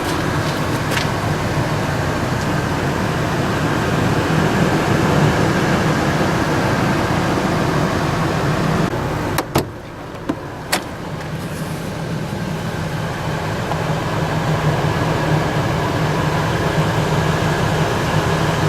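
Ford 4.6L Triton V8 of a 1999 F150 idling steadily, heard with a steady rush of air. Two sharp clicks come about halfway through, with a brief dip in the sound around them.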